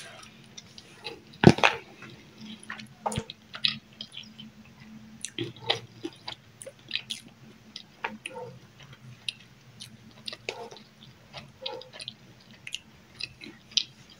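Close-up eating sounds of rice, corn and chicken being chewed: wet mouth clicks and lip smacks, scattered and irregular. There is a louder knock about a second and a half in, and a faint steady low hum underneath.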